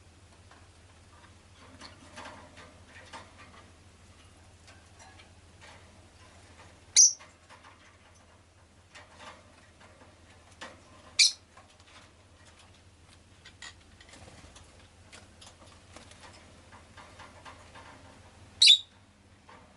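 Rosy-faced lovebird giving three short, shrill, loud chirps several seconds apart, with faint clicks and rustles between them over a low steady hum.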